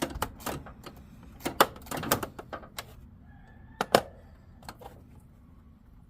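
Hand tools clicking and knocking against metal parts in an engine bay: irregular sharp clicks, with two louder knocks about a second and a half and four seconds in, thinning out near the end.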